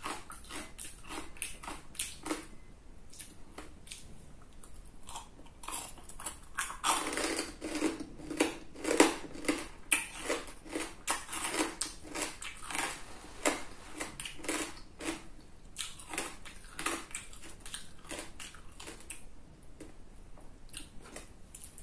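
Crunchy chewing and biting of chicharon (deep-fried pork rind) close to the microphone: many quick irregular crunches, coming thickest and loudest in the middle.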